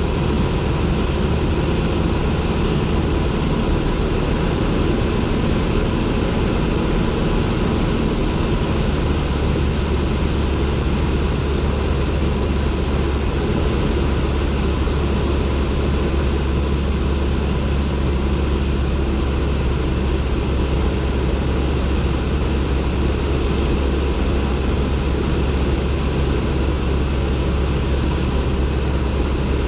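Steady drone of a Cessna 172N's four-cylinder Lycoming engine and propeller, heard from inside the cabin.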